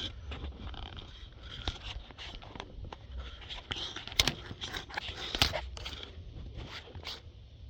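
Camera handling noise: scattered light clicks, taps and short scrapes as the camera is moved and repositioned, with a few sharper ticks about four and five and a half seconds in.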